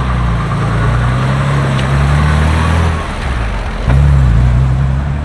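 Car engine running with a low, steady note; it eases off about three seconds in, then comes back louder about a second later.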